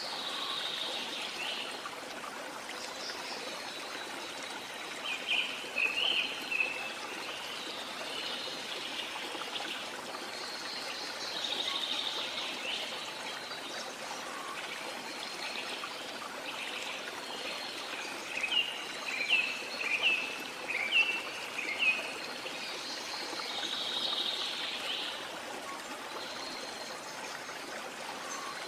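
A waterfall rushing steadily, with birds chirping over it in short bursts: a cluster of quick chirps about five seconds in and a longer run of chirps around two-thirds of the way through.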